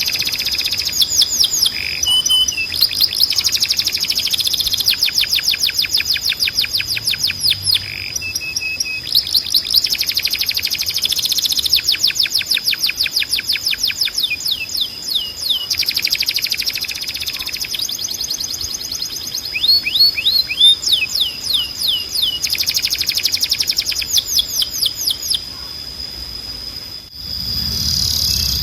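Domestic canary singing: fast trills of quickly repeated down-sweeping notes, switching to a new trill pattern every second or two, over a steady high whistling tone. Near the end the song briefly cuts out, and a low rumble comes in.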